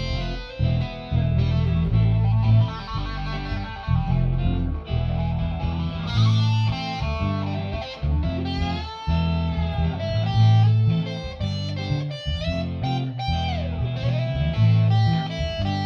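Electric guitar playing a shuffle over a steady bass line, with bent notes in the middle and a sliding drop in pitch near the end.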